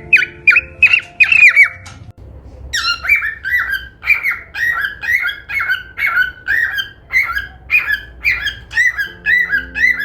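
Cockatiel repeating short chirping calls, each note curving around a high pitch, in a quick run of about three a second that breaks off about two seconds in, then a second, slower run of about two a second. Soft background music underneath.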